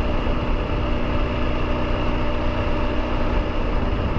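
Triumph Tiger 900 GT's three-cylinder engine running steadily while riding, with wind and road noise.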